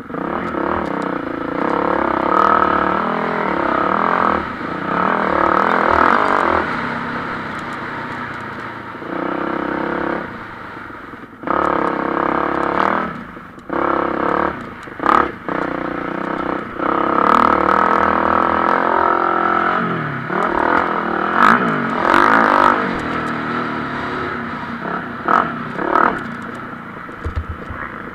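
Motocross bike engines racing, revving up and falling back over and over as the riders accelerate and shift, with several sudden drops in level.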